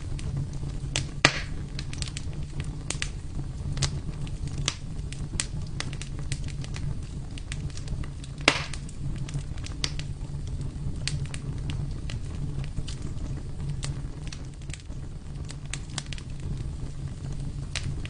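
Wood fire burning in a fireplace: irregular sharp crackles and pops over a steady low rumble of the flames, with two louder pops, about a second in and about halfway through.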